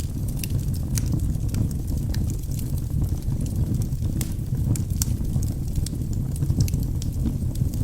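Wood fire burning in a fireplace: a steady low rumble of the flames with scattered sharp crackles and pops from the logs, several a second.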